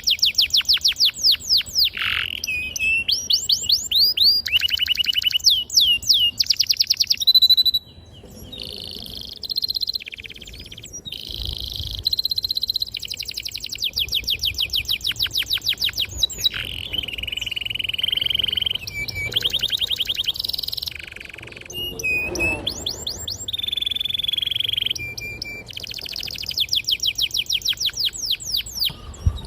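Domestic canary singing a long, unbroken song. It runs through fast rolling trills of rapidly repeated high notes, switching to a new phrase every second or two with only short breaks.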